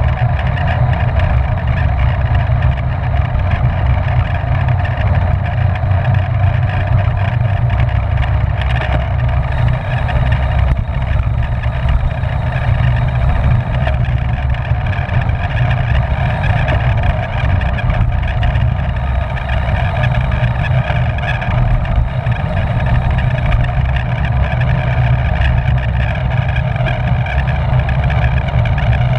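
Steady wind rush buffeting the microphone of a camera riding on a racing bicycle at speed, with a constant whine above it.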